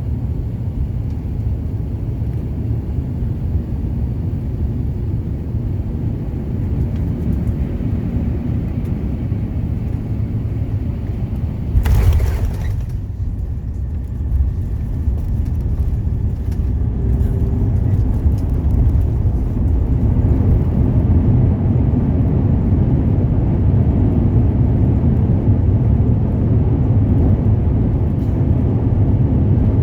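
Steady low rumble of a jet airliner heard from inside the passenger cabin during landing, with one short loud burst about twelve seconds in. The rumble grows louder in the second half.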